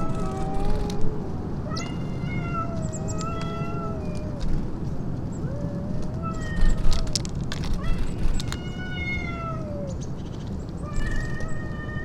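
Domestic cat meowing over and over: about five long, drawn-out meows that bend in pitch, with short clicks between them.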